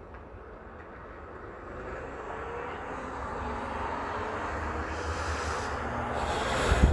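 A fire engine pulling away from the scene, its engine and road noise growing louder as it passes close by. There is a brief loud rush just before the end.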